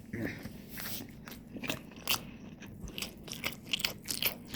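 Close-up chewing of a corn dog: a run of irregular short clicks and crunches near the microphone.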